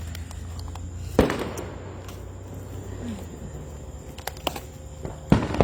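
Fireworks going off: a sharp bang about a second in that rings away, a few faint cracks, and another sharp bang near the end.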